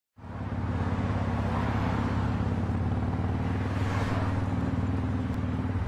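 Engine of an off-road 4x4 running at a steady speed: an even, low drone.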